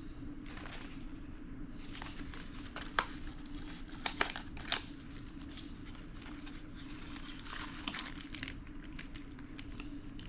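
Plastic packaging of engine parts crinkling and rustling as it is handled, with a few sharp clicks, over a steady low hum.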